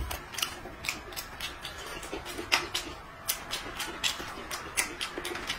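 A man eating noodles: moist chewing and lip-smacking, heard as irregular sharp clicks a few times a second.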